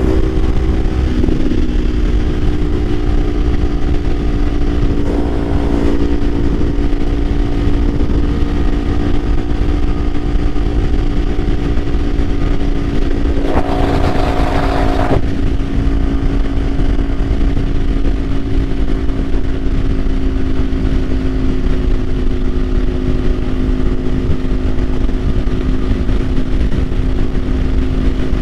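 Kawasaki Ninja 500's parallel-twin engine running at a steady cruise, its pitch dropping once about a second in as it settles into a lower engine speed. About halfway through a brief rush of noise passes over it for a second or two.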